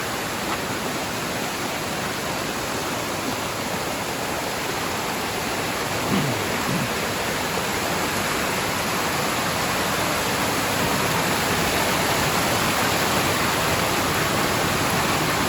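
Steady rushing roar of a waterfall, growing a little louder about halfway through.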